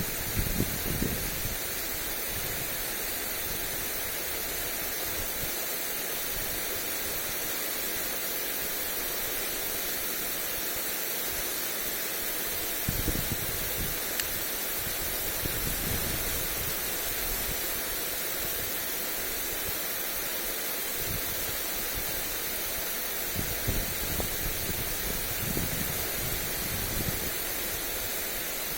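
Lawn sprinkler spray hissing steadily onto grass. Wind buffets the microphone in short low gusts near the start, about halfway through, and again near the end.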